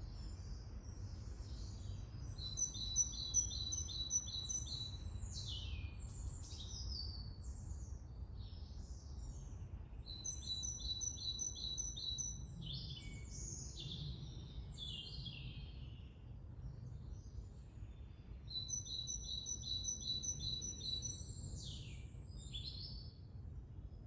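A songbird singing three song phrases, each a quick run of evenly repeated high notes followed by a tumble of falling notes, over a steady low background rumble.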